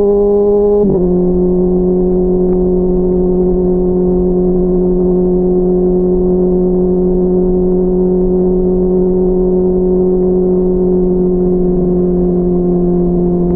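Honda CBR600RR's inline-four engine running under way at steady revs, heard while riding. Its pitch dips sharply about a second in, then holds level with only a slight sag near the end.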